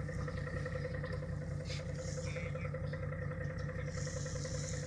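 Motorboat engine idling steadily, with an even low throb.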